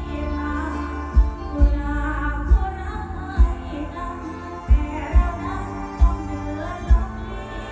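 A female vocalist singing a Thai mor lam song live with the band. Heavy bass drum beats sound under the voice and the backing instruments.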